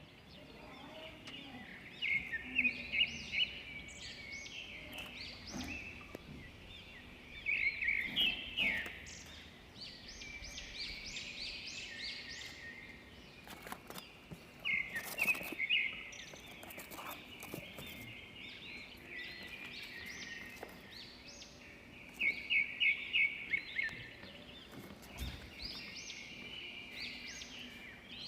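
Budgerigar chicks chirping steadily, with short high calls and louder rapid bursts of chirps four times.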